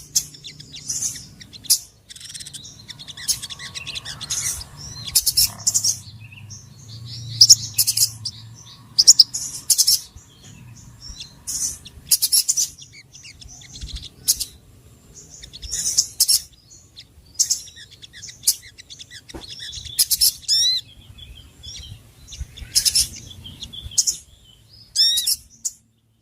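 Bird-luring call for sogon birds: short bursts of sharp, high-pitched chirps repeating every second or two, with a few quick sweeping whistle notes near the end and a faint low hum underneath.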